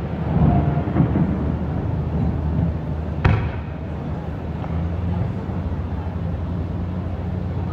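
Aerial fireworks: one sharp bang about three seconds in, over a steady low rumble between bursts.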